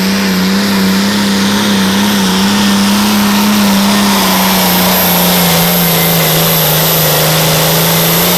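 A tractor-pull tractor's diesel engine running flat out under heavy load down the track, with a steady high whine over it. The engine note wavers, then sags slowly lower through the second half as the sled's weight builds.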